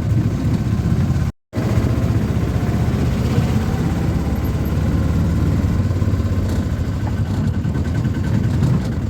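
Street traffic: vehicle engines running with a steady low rumble, cut off to silence for a moment about a second and a half in, then resuming.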